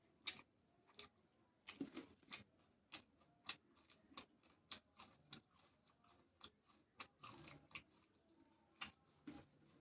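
Close-up chewing of raw vegetables: irregular crisp crunches, about one or two a second.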